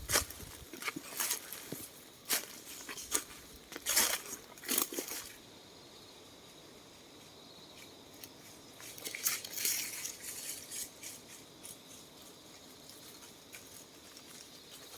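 Dry leaf litter and twigs crunching and crackling in irregular bursts, busiest in the first five seconds and again around nine to eleven seconds in, with a quieter stretch between.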